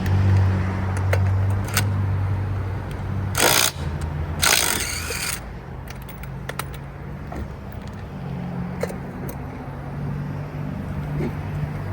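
Vehicle engine idling with a steady low hum, broken by two short hissing bursts a little past a third of the way in, plus a few small clicks.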